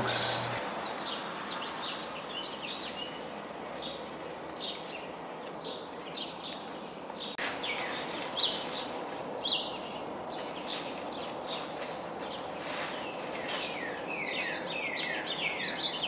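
Small birds chirping repeatedly in short, high chirps, with a quicker run of falling chirps near the end. A few soft taps are heard among them.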